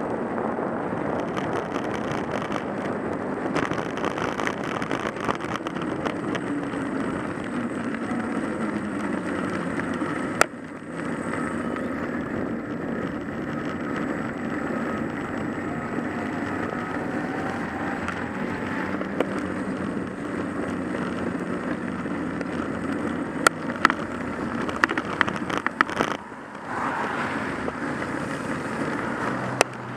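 Car engine and tyre noise while driving, with the engine note falling as the car slows. A few sharp clicks come near the end.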